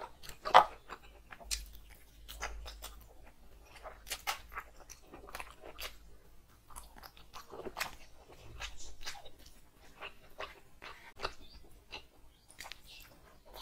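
A person biting into and chewing pieces of chicken curry close to the microphone: an irregular string of crunches and chewing clicks, the loudest about half a second in. Near the end a mouthful of rice is taken.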